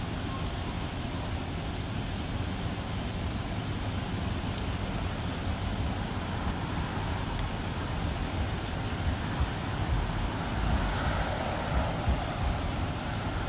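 Steady road traffic noise: vehicles running and passing, a low, even rumble.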